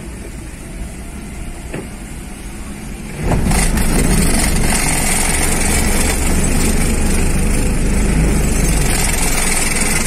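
A vehicle engine starts up about three seconds in and then runs steadily, a low rumble with a high hiss, loud inside a car on a ferry's enclosed steel car deck. Before that there is a quieter steady hum of engines on the deck.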